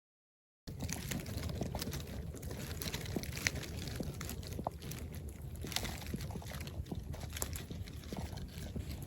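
Wood campfire crackling, with many small sharp pops over a low steady rumble; it cuts in suddenly under a second in.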